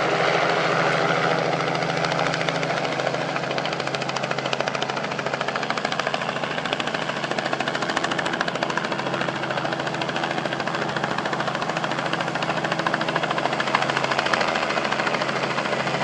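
Helicopter running overhead, its rotor blades beating in a fast steady chop over the engine's whine; loudest at the start, then steady.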